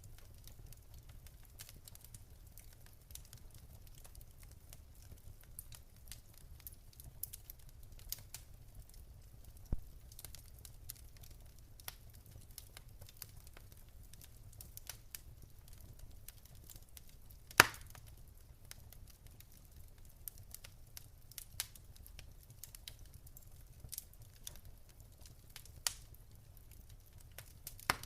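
Wood fire in a fireplace crackling, with scattered sharp pops and one loud pop about two-thirds of the way through, over a faint low rumble.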